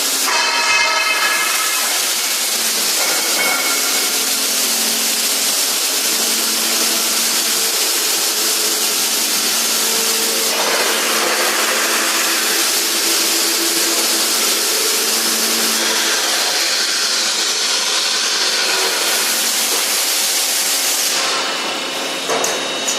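Automatic scaffolding welding machine at work: a steady, loud hiss with a low hum underneath, easing off near the end.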